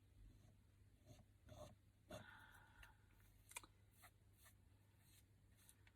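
Near silence, with a few faint light taps and scratches from handling a paintbrush and a board wet with gesso.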